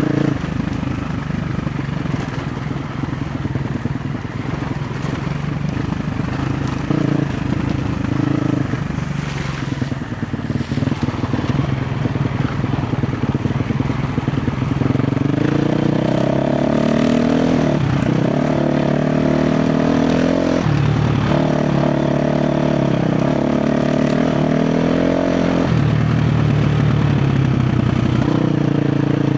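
A KTM 350 XC-F dirt bike's single-cylinder four-stroke engine running under changing throttle off-road. The revs climb about halfway through, hold higher with two short dips, then fall back near the end.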